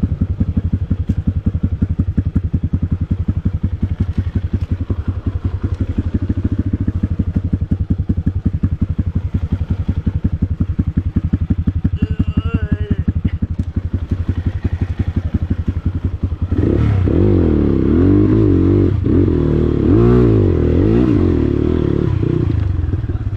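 Dirt bike engine running at low revs with a steady, even putting. About two-thirds of the way through it gets louder, revving up and down as the bike works along the rough track.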